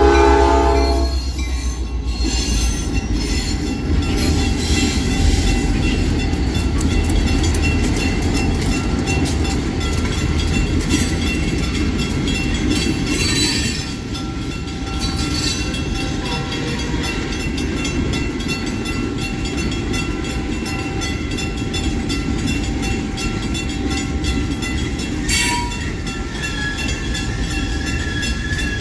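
Freight train with several locomotives rolling through a grade crossing: its horn cuts off about a second in, then a steady low rumble with rhythmic wheel clicks as the cars pass.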